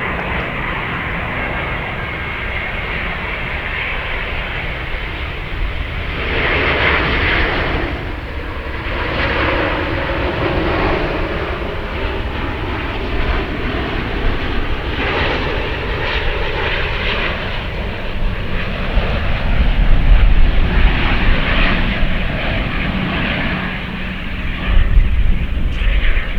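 Jet airliner engines running, a continuous rush of jet noise over a deep rumble that grows louder in the second half.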